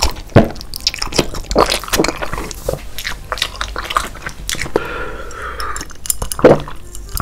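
Close-miked mukbang eating sounds: wet slurping, chewing and lip-smacking on spicy fire noodles with sausages, a rapid string of small clicks and squishes. A short vocal sound comes about five seconds in, then a louder gulp as he drinks.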